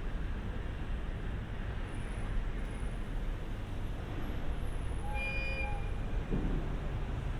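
Steady low rumble of an E127-series electric train and its surroundings, with one short horn toot about five seconds in.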